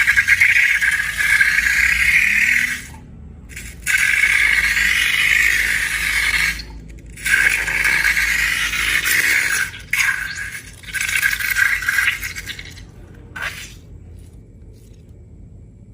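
Slime ingredients being scraped and stirred in a container, a gritty scraping and rattling. It comes in stretches of two to three seconds with short pauses between them, and dies down near the end.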